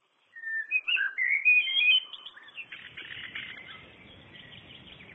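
Birds chirping: a quick run of loud, high chirps for the first couple of seconds, then fainter chirps over a steady outdoor hiss.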